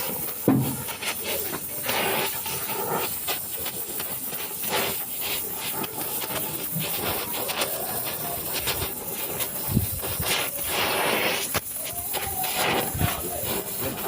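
Electric arc welding on a car exhaust pipe: a steady crackling hiss with irregular pops.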